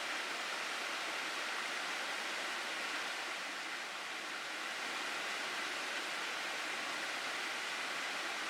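Water rushing steadily down a mountain gorge stream, an even hiss with no breaks.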